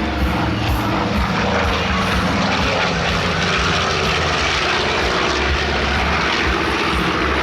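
A B-25 Mitchell bomber's twin Wright R-2600 radial piston engines running loud and steady as it flies past.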